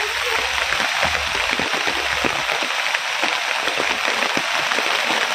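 Heavy rain falling steadily: a dense hiss filled with many individual drops hitting surfaces.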